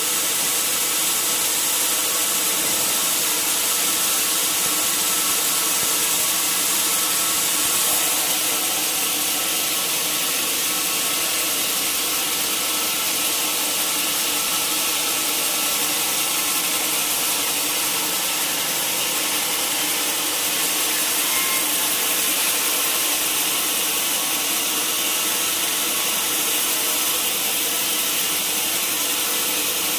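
Sawmill saw cutting through timber: a steady, continuous hiss of sawing with a faint machine whine underneath.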